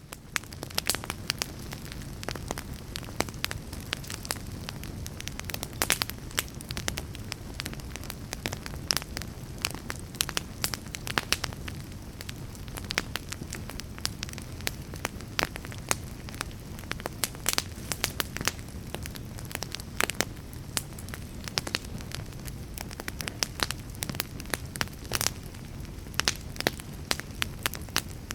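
Fire crackling: frequent, irregular sharp pops and snaps over a steady low rumble of burning.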